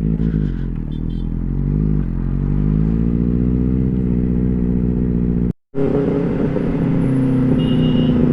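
Benelli 600i inline-four motorcycle engine running under way. Its pitch climbs for a couple of seconds as it accelerates, then holds steady. The sound cuts out for an instant about five and a half seconds in, then carries on at a steady cruise.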